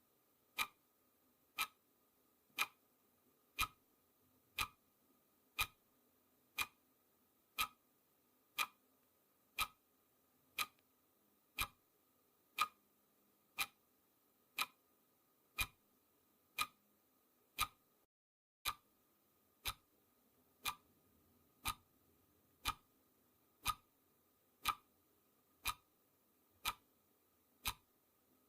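Clock ticking sound effect: sharp, even ticks once a second, keeping time for a countdown timer.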